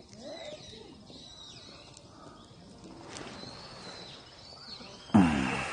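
Faint outdoor background with a high chirping call repeating about once a second. About five seconds in comes a sudden, loud, short voice-like sound that falls in pitch.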